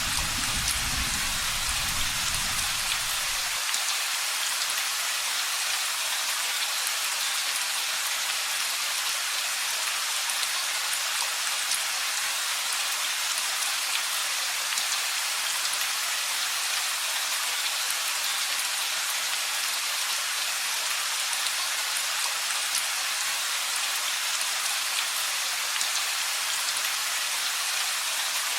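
Steady rain falling, an even hiss of drops. A low thunder rumble dies away in the first few seconds and cuts off about three and a half seconds in.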